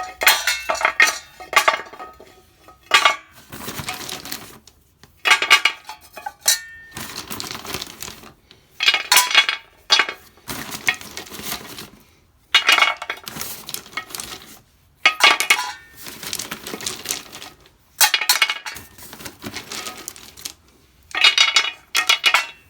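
Decorative stones being put into a vase around a metal pot in batches, clattering and clinking against each other and the metal, in loud bursts every two to three seconds.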